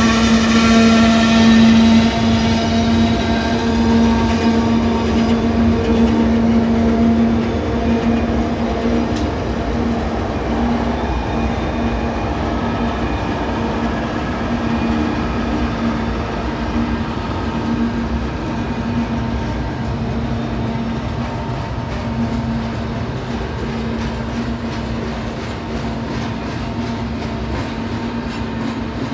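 BNSF double-stack intermodal freight trains rolling past, their steel wheels clattering over the rails. A steady pitched hum is strongest in the first several seconds and slowly fades.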